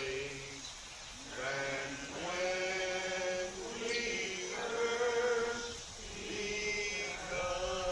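Congregation singing a slow hymn, each phrase made of long held notes with short breaths between them.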